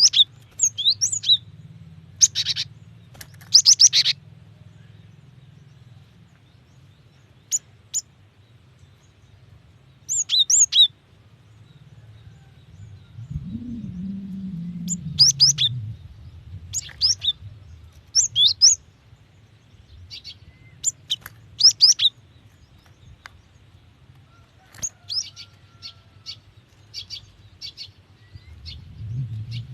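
Female cinereous tit (gelatik batu) calling: short, high chirps in quick bunches of a few notes, with pauses of a second or more between bunches. A low rumble rises and fades about halfway through, under a steady low hum.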